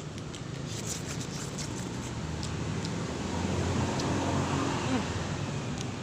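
A low engine hum that grows louder through the middle and eases off near the end, with a few faint clicks over it.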